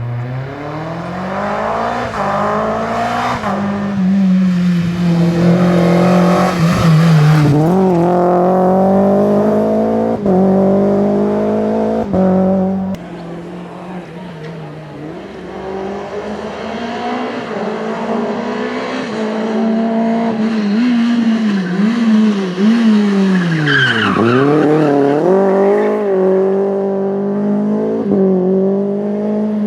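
Rally car engine revving hard as it passes, its pitch climbing and dropping through gear changes and lifts off the throttle. Loudness falls suddenly about halfway through, and a sharp dip and climb in pitch comes near the end.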